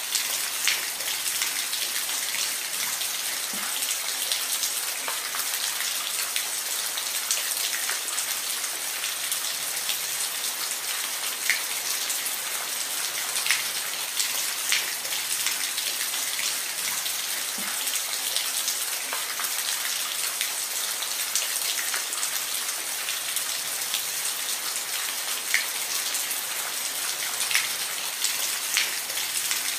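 Steady rain falling, a dense hiss with individual drops striking a surface close by as scattered sharp taps.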